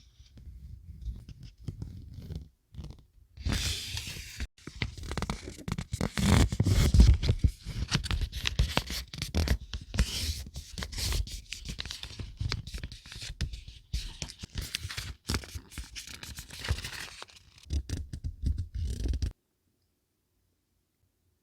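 Close-up rustling and crinkling of paper and packaging being handled, full of small taps and crackles with low table bumps beneath. It cuts off abruptly near the end.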